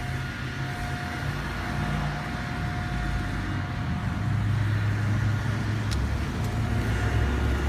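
Motor vehicle engine rumbling and growing gradually louder as it approaches, with a faint steady high tone above it.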